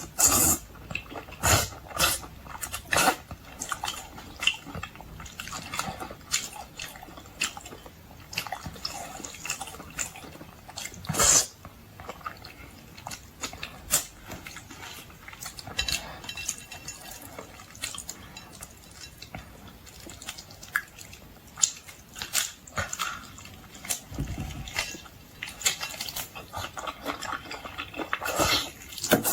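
Close-miked eating of boiled seafood: irregular chewing and mouth smacks with sharper clicks scattered throughout, typical of mukbang eating sounds.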